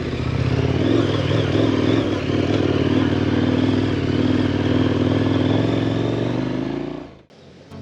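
2018 KTM 1090 Adventure R's 1050 cc LC8 V-twin engine running at steady throttle while riding, with wind and tyre noise. The engine sound cuts off abruptly about a second before the end.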